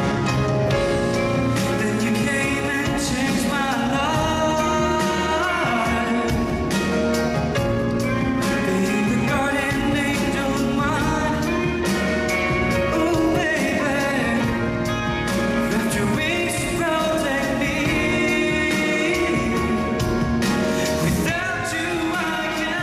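Pop song with a male voice singing over a full band with drums, at a steady level.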